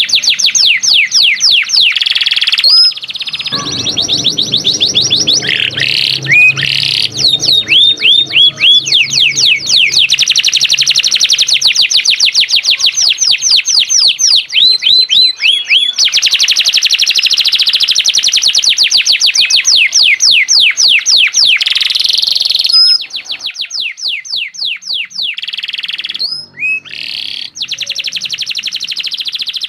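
Domestic canary singing vigorously and without letup: long rapid trills of quick falling notes, changing phrase every few seconds.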